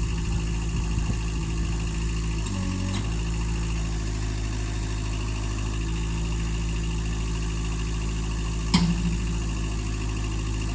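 Engine idling steadily, its note briefly wavering about two and a half seconds in, with one sharp clank near the end.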